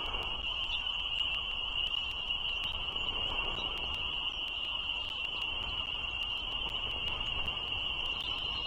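A frog chorus as one steady high-pitched trill that never breaks, over a low, even rumble.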